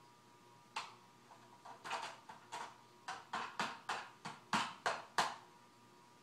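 Toy garbage truck and toy garbage cans being handled: a run of about a dozen sharp knocks and clatters that come faster after the first few.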